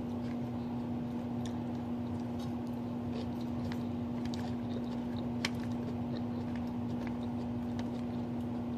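Close-up chewing and biting of salad, with faint small clicks and one sharper click about five and a half seconds in, over a steady low hum.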